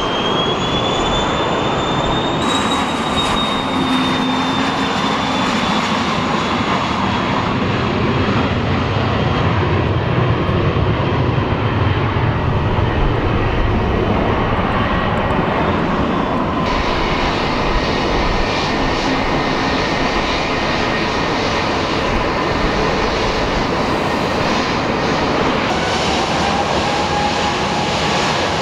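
Jet engines at takeoff power: a Cessna Citation 560XL business jet's twin turbofans on its takeoff run, the low rumble swelling to a peak about halfway through. About two-thirds of the way in the sound changes abruptly to an Airbus A320's turbofans, with steady whining tones over the rumble. It opens with a rising whine from another jet for the first couple of seconds.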